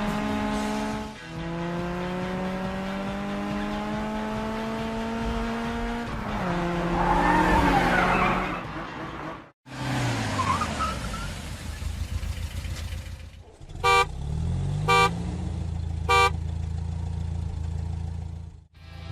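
Cartoon vehicle sound effects: a steady engine-like hum creeping slowly up in pitch, a louder noisy stretch midway, then three short horn honks about a second apart near the end.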